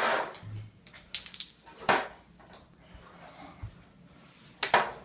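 Scattered knocks and clatter of hard objects in a small room: a quick rattle just after the first second, then single sharper knocks about two seconds in and near the end.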